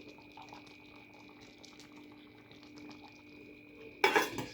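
Pot of soup simmering with faint bubbling and crackling over a steady low hum. A brief louder noise comes about four seconds in.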